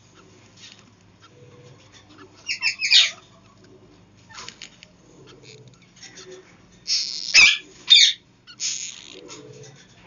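Caged birds giving short, harsh squawking calls: a few around the third second and louder ones around the seventh and eighth seconds. There is a knock against the wooden nest box between them, and a brief rustling burst near the end.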